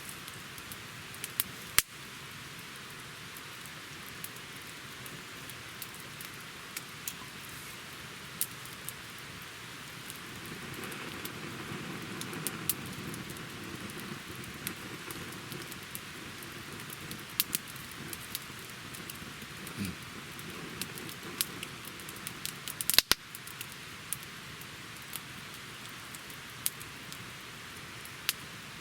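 Wood campfire burning: a steady hiss of flames with scattered sharp crackles and pops, a loud pop about two seconds in and a quick cluster of pops near the end. A low rushing swell rises and fades in the middle.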